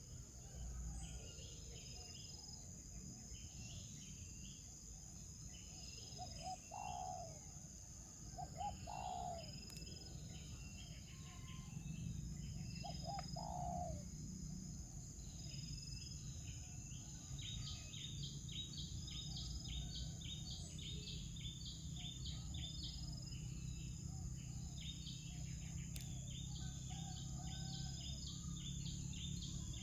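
Birds chirping in quick, repeated bursts, busier in the second half, over a steady high-pitched insect whine and a low background hum. A few lower, rising calls stand out in the first half.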